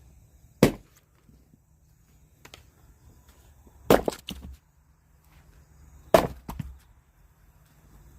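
Firewood being chopped: three sharp strikes about three seconds apart. The second and third are followed by short cracking and clatter as the wood splits.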